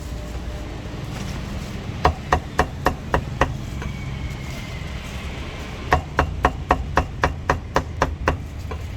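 Cleaver chopping roast meat on a chopping block: quick, even strokes about four a second, in a short run about two seconds in and a longer run about six seconds in.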